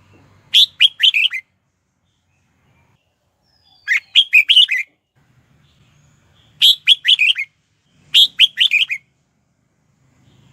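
Red-whiskered bulbul singing: four short phrases of about five quick, clear whistled notes each, with pauses of a second or two between them.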